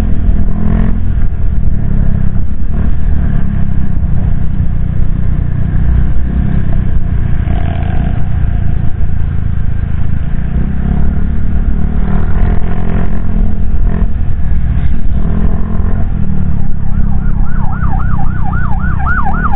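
Wind buffeting and motorcycle engine rumble picked up by a helmet-mounted action camera's external microphone while riding, the deep low rumble the loudest part. About three seconds before the end a rapidly warbling high tone joins in.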